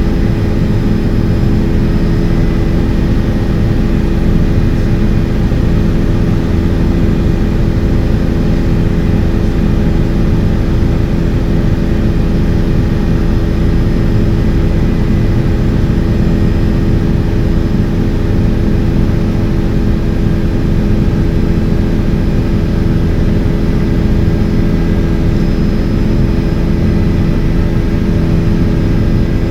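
Helicopter in flight: a steady, loud engine and rotor drone with constant humming tones over a deep rumble.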